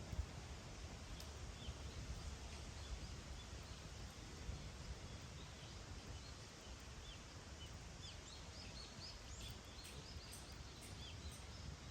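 Campfire outdoors with a few faint crackles over a steady low rumble, and small birds twittering in short high chirps from about eight seconds in.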